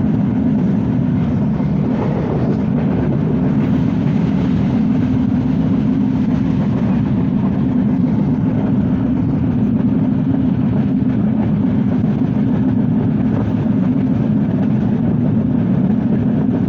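Banalata Express passenger train in motion: a steady, loud low rumble with no breaks.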